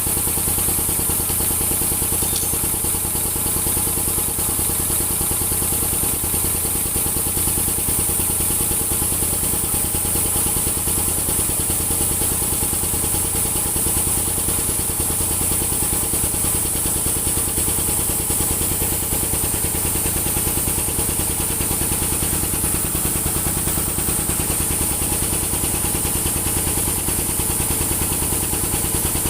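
Swan SVP-205 piston air compressor, driven by a 3.7 kW three-phase electric motor, running steadily with a fast, even pulse that holds the same pace throughout.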